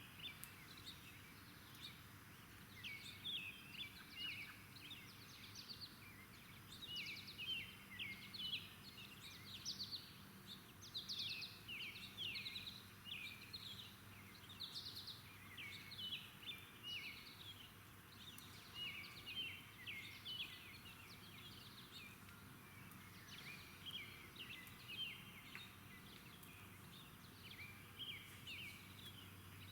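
Several small songbirds chirping continuously, with many short, quick notes overlapping, over a faint steady low hum.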